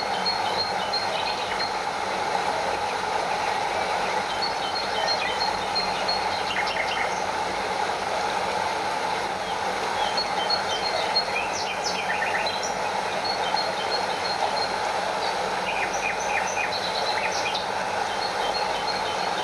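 Stream water flowing and lapping in a steady, even rush, with a small waterfall cascading further off. Brief runs of high chirping notes come and go over it every few seconds.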